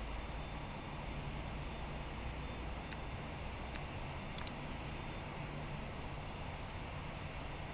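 Steady low rumble and hiss of jet aircraft engine noise at an airport, with a few faint sharp clicks about halfway through.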